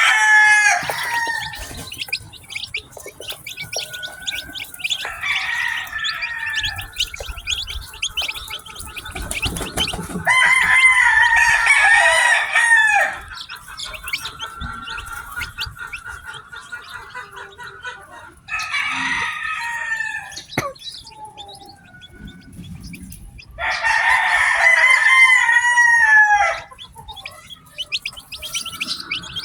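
Many newly hatched chicks peeping continuously in short, high chirps, while a rooster crows several times over them, each crow lasting two to three seconds and louder than the chicks.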